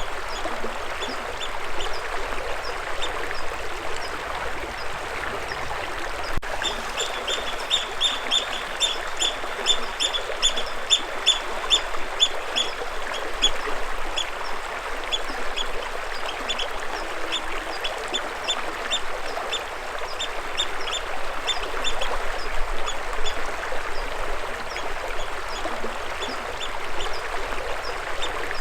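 A bird calling in a rapid series of short, sharp, high notes, about three a second, loudest in the first half and more scattered later, over the steady rush of running water.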